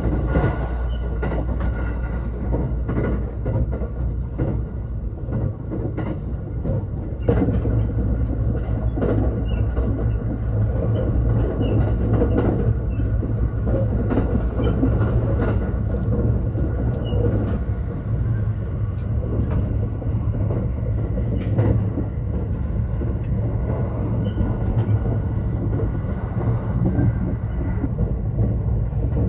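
Thunderbird limited express train heard from inside the passenger car while running at speed: a steady low rumble with scattered clicks from the wheels and track.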